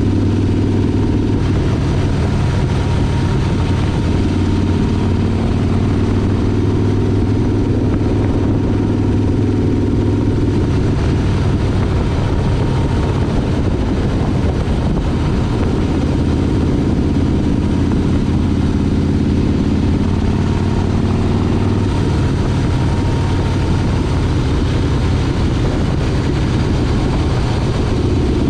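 Motorcycle engine running steadily while riding, its pitch shifting a little every few seconds.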